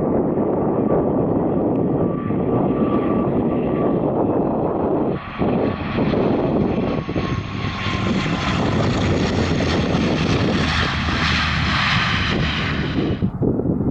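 Airliner on final approach passing close by, its engines running loud and steady with a thin whine early on. A hiss in the upper range builds from about five seconds in and cuts off abruptly near the end.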